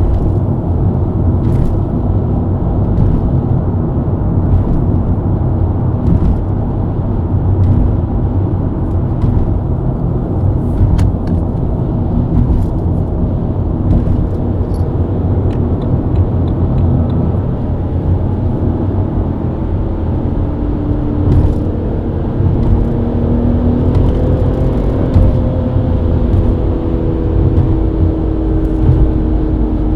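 BMW E90 323i's inline-six engine running at highway speed under a steady low road and tyre rumble; about two-thirds of the way in the engine note rises gently as the car accelerates.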